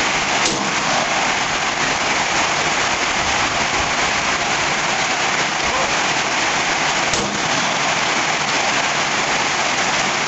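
Steady rain falling, an even hiss with no break. Two faint brief knocks stand out, about half a second in and again about seven seconds in.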